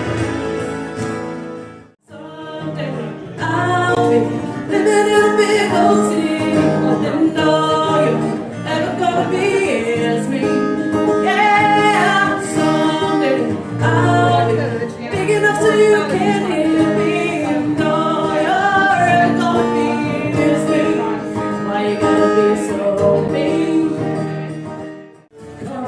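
A singer performing a song with instrumental backing. The music drops out briefly about two seconds in and again near the end.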